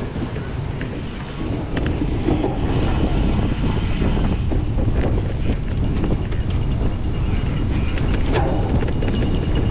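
Wind rushing over the microphone of a moving cyclocross bike, with scattered clicks and rattles from the bicycle.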